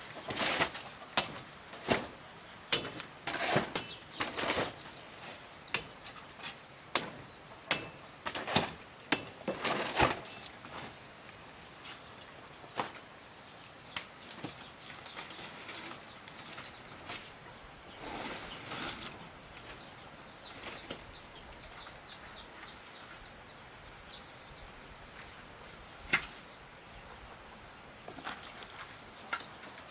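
Irregular knocks and short scraping strokes, thickest in the first ten seconds and again around 18 seconds in. From about 15 seconds in, a small bird chirps about once a second.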